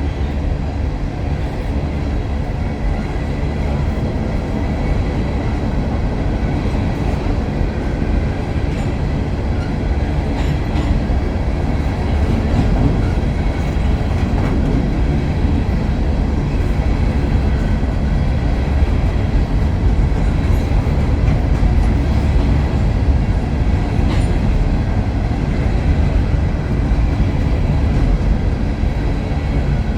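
A grain train's freight cars rolling past on the rails: a steady, heavy rumble with scattered wheel clicks, keeping on without a break.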